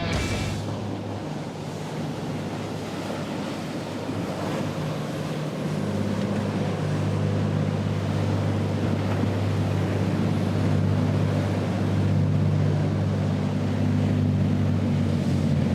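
Surf and wind noise on the microphone, with a boat's motor droning steadily from about five seconds in.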